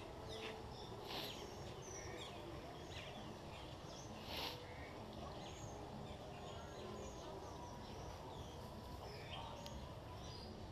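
Many small birds chirping and calling in an aviary: short, scattered high chirps over a steady low background rumble, with two louder, harsher rasps about one and four seconds in.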